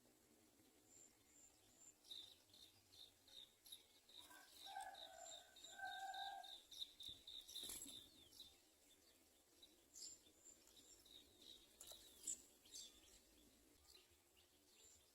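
Faint house sparrow chirping: short high chirps repeated about three or four a second, thinning out in the second half. Two short lower held notes come about halfway through, and a sharp click comes just before the chirping thins.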